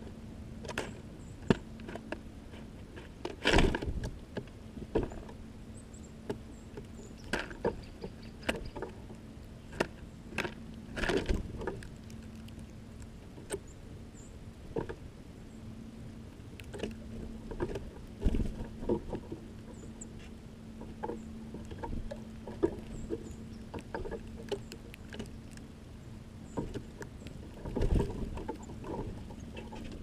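Irregular taps, scrabbles and knocks of small birds hopping, landing and pecking at seed inside a small feeder house, loudest at a few heavier knocks, over a steady low hum. A few faint, very short high peeps come in between.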